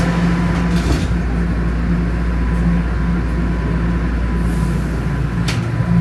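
Line 1 subway train running from inside the car, moving off after the doors close: a steady low rumble and hum with a few sharp clicks. A deeper motor hum comes in about five and a half seconds in.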